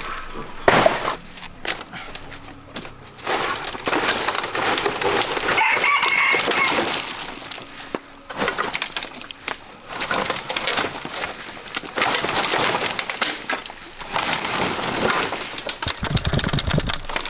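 Chickens, with a rooster crowing once about six seconds in, over repeated bursts of rustling and snapping.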